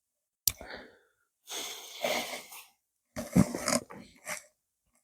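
Close-up mouth sounds of a person eating: a sharp click, then breathy exhales and chewing noises in three short bursts.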